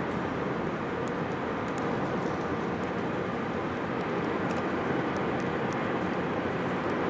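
Steady cabin noise of an airliner, its engines and rushing air heard from inside the passenger cabin.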